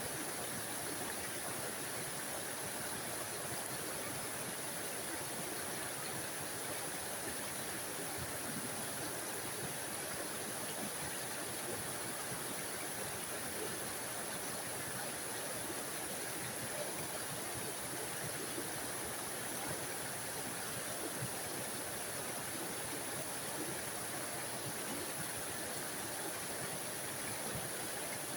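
Small forest waterfall on a mountain stream: water pouring and splashing in a steady, even rush with a bright hiss.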